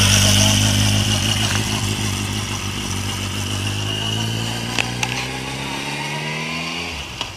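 A 1250 cc sport bike's engine running as the motorcycle pulls away, its sound fading steadily and dropping a little in pitch as it moves off.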